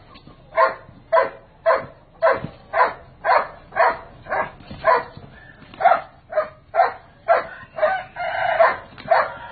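A dog barking steadily, about two barks a second, with one longer drawn-out call about eight seconds in.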